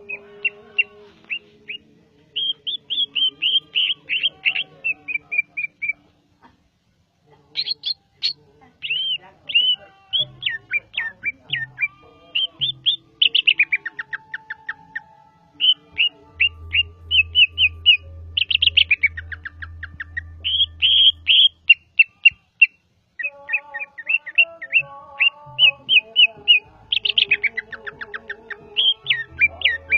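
Greater green leafbird (cucak ijo) singing: fast runs of sharp chirps and steeply falling whistled sweeps, in phrases broken by short pauses.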